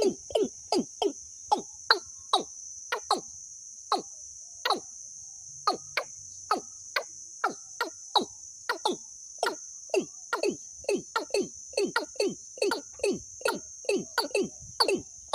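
A recorded bird call: a long series of short, sharply falling notes, quick runs at first, sparser for a few seconds, then quickening again. A steady high insect-like buzz runs underneath.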